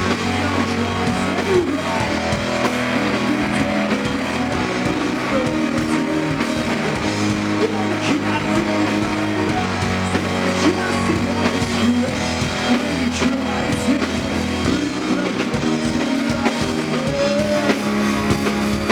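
Live rock band playing an instrumental passage with electric guitars, bass and drums.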